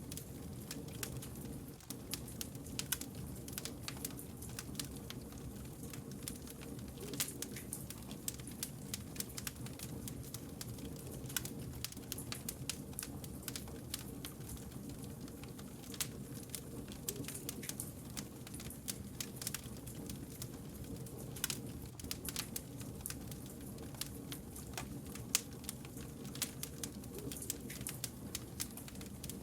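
Wood fire burning with a steady low rumble and frequent sharp crackles and pops of burning logs.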